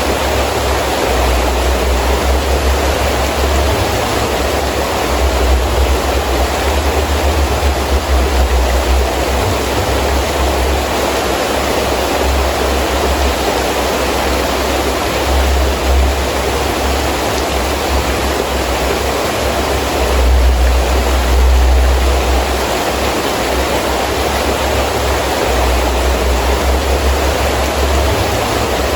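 Heavy rain falling steadily, with gusting wind that comes through as a deep rumble swelling and fading several times.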